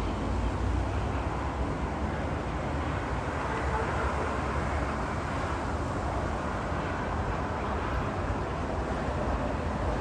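Steady jet noise from a Boeing 737-800's CFM56 turbofan engines, even and unchanging.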